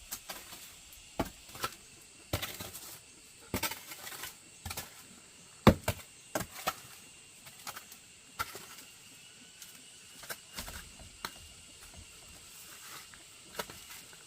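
A string of irregular sharp knocks and clacks, the loudest about halfway through, over a faint steady hiss.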